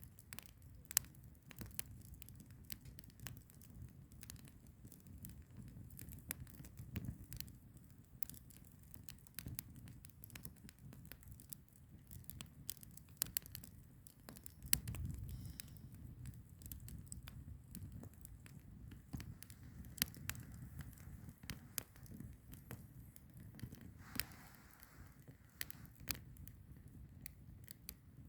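Firewood logs burning, crackling with irregular sharp pops and snaps over a low, steady rumble of the flames.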